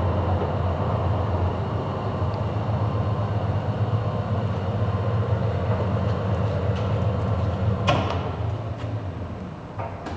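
DOALL ML-16 vertical band saw running with a steady low hum that eases off over the last couple of seconds. A sharp click comes about eight seconds in, and a few more clicks near the end.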